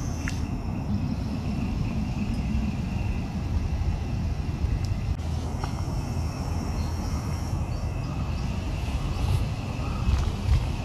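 Steady low outdoor rumble with faint thin high tones running above it and a few faint ticks.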